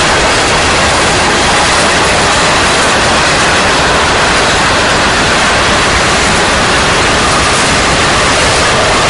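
A long freight train's boxcars and autorack cars rolling past on the rails: a loud, steady, even roar with no single clank or horn standing out.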